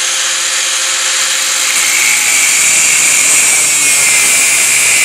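Angle grinder with an abrasive cutoff wheel running at full speed and cutting a slit into a metal plate, a loud steady high hiss and whine.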